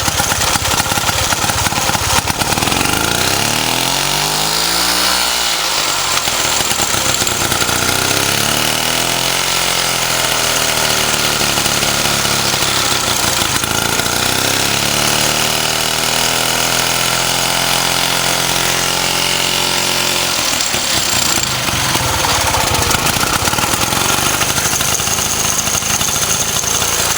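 Vintage 1926 Jawa motorcycle engine, converted to a stationary engine, running steadily with its muffler fitted.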